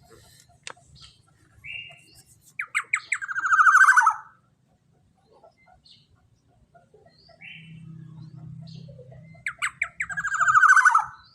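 Black-naped oriole (kepodang emas) calling twice, several seconds apart. Each call starts with a short note, then a rapid run of notes that slides down in pitch into a rasping descent.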